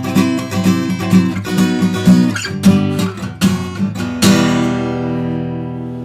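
Acoustic guitar strummed in the galop pattern across all strings, then, about four seconds in, one final chord struck and left ringing as it fades.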